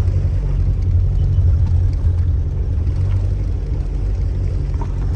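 Fishing boat's motor running steadily at low trolling speed, a steady low drone.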